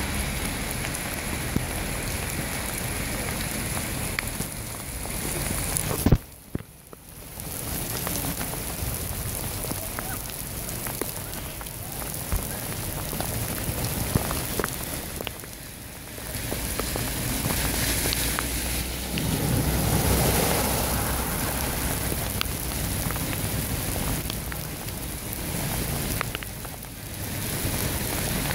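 Heavy rain falling on a flooded street, a steady hiss of rain on standing water and pavement. A sharp knock about six seconds in is the loudest moment, and the sound drops away briefly after it. Later a vehicle passes through the floodwater and adds a low swell.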